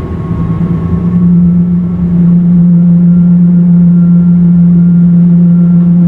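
Cabin noise inside a Boeing 777-200LR on its landing run: a loud, steady jet-engine drone with a strong low hum, swelling about two seconds in and then holding.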